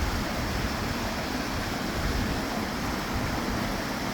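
Steady rush of a waterfall and its rapids.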